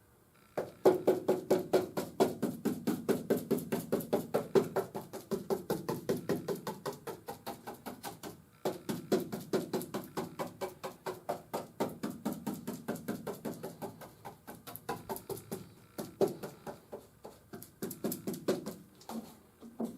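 Fast, even tapping strokes, several a second, from hand-working catalysed Bondo fiberglass resin for a floor-pan patch, with a short pause about eight and a half seconds in.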